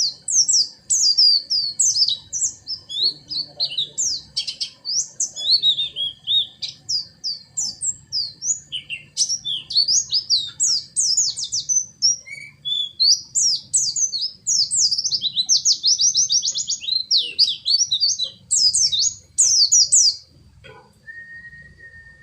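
White-eye (pleci) singing a fast, unbroken string of high chirps and trills, an 'isian' song packed with phrases copied from other birds. The song stops near the end, leaving a faint steady tone.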